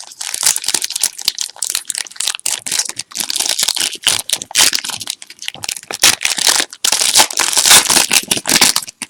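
Foil wrapper of a trading-card pack crinkling and tearing as the pack is opened by hand: a dense, irregular crackle.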